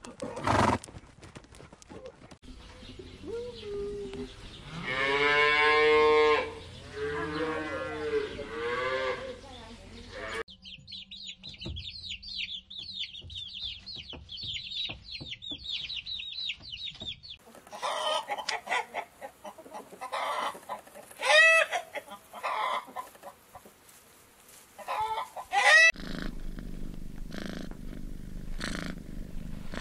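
A series of animal sounds. First a horse whinnies with a long wavering call. Then comes a chick's rapid high-pitched peeping, then louder separate chicken calls, and near the end a cat's steady purring.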